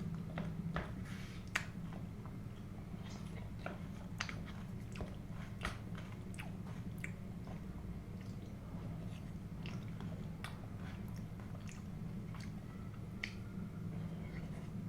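Close-miked chewing of food, with many short wet mouth clicks and smacks over a steady low hum.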